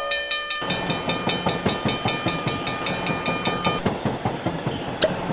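Train sound effect: railway wheels clattering in a fast, even clickety-clack, with a high ringing tone pulsing rapidly over it that stops about four seconds in.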